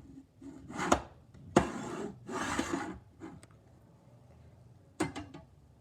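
Handling noise: a few sharp knocks and two stretches of scraping, as of objects being knocked and slid across a hard surface. More knocks come about five seconds in.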